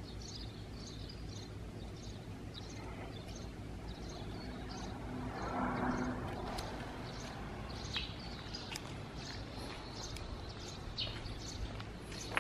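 Quiet street ambience with small birds chirping over and over in short high notes, a brief louder sound about halfway through, and a few sharp footstep-like clicks in the second half.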